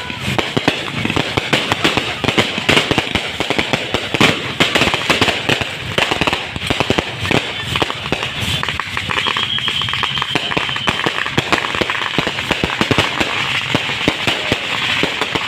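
Fireworks and firecrackers going off in a dense, continuous crackle of rapid bangs, with a thin whistle for a couple of seconds around the middle.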